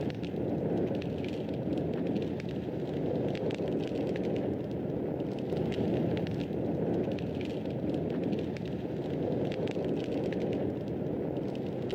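Wood fire burning in a fireplace: a steady low rushing of flames with frequent small, irregular crackles and pops.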